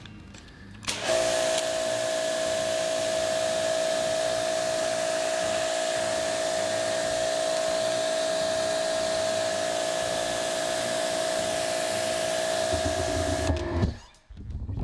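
Husqvarna 2000 PSI electric pressure washer running and spraying through a 40-degree nozzle: a steady motor-and-pump whine over the hiss of the spray, at about 1,000 PSI. It starts about a second in and cuts off abruptly near the end.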